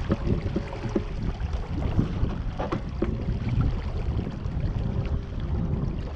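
Wind buffeting the microphone over water splashing and lapping against the hull of a small RS Zest sailing dinghy under way, with scattered small knocks and splashes.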